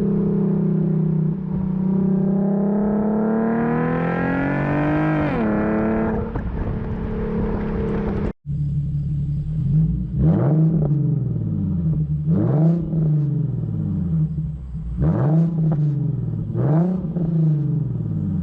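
Infiniti Q50 engine through a muffler-delete axle-back exhaust: a steady drone that rises in pitch to one rev and drops back. After a short break it gives four quick throttle blips, each revving up and falling back, about two seconds apart.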